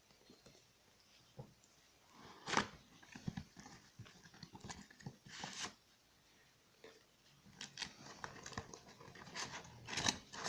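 Faint handling of a model's packaging being opened and unpacked: scattered clicks, crinkles and short scraping rustles at irregular intervals.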